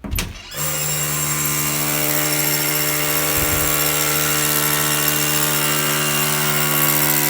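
Engine-driven equipment of a slab-repair foam-injection rig running steadily at a constant speed. The drone sets in abruptly about half a second in, after a short knock.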